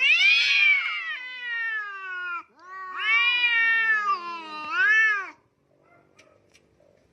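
Cat giving two long, drawn-out yowling meows, the first rising then falling in pitch, the second wavering near its end.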